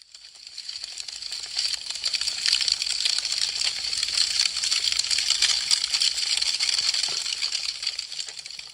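Wood fire crackling: a dense, continuous stream of sharp pops and snaps. It fades in over the first couple of seconds and fades out near the end.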